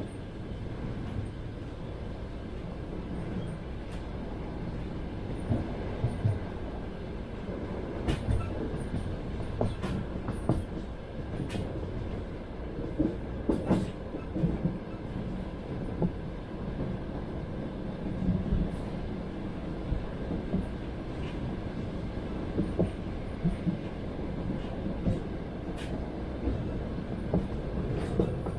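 Passenger train carriage running along the track, heard from inside: a steady rolling rumble with the wheels knocking over rail joints at irregular intervals of a few seconds.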